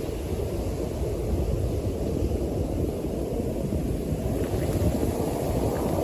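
North Sea surf washing onto the beach in a steady wash of noise, with wind rumbling on the microphone.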